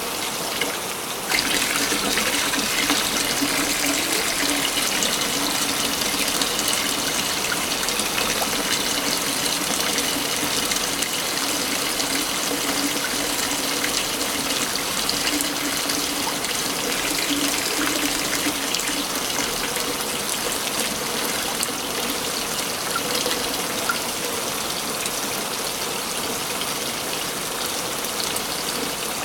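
Waterfall in a forest: a steady rush of falling water that steps up louder in its higher hiss about a second in.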